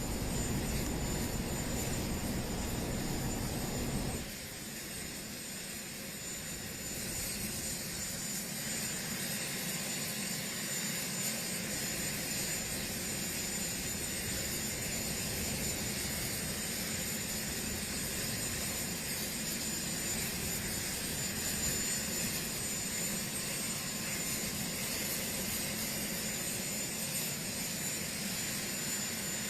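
Helicopter's turbine engines running with a steady high whine over a rushing noise, which drops suddenly in level about four seconds in.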